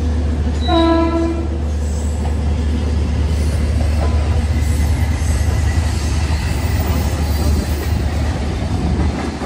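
A train horn sounds one short toot about a second in. Under it runs the steady low rumble of the double-decker express's coaches rolling out of the station at low speed.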